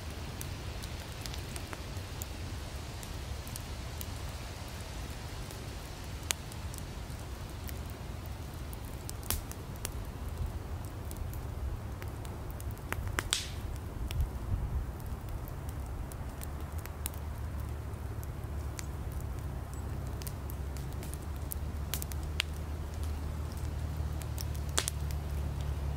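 Wood campfire crackling, with irregular sharp pops from the burning firewood over a low steady rumble. About halfway through there is a short hiss.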